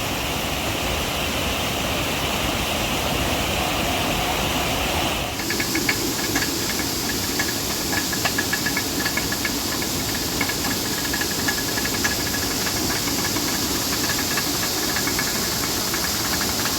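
Steady rushing, hissing sound of water, changing abruptly about five seconds in to a brighter hiss with faint, rapid light ticking.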